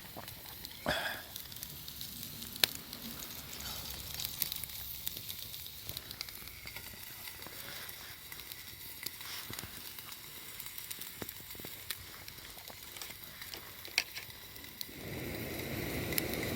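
Wood campfire crackling, with scattered sharp pops, and food sizzling over the flames. A louder rush of noise comes in near the end.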